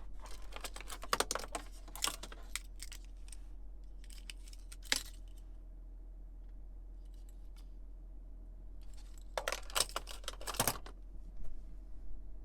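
Clusters of small clicks and rattles: one about a second in, a single sharp click about five seconds in, and another cluster about ten seconds in, over a steady low hum.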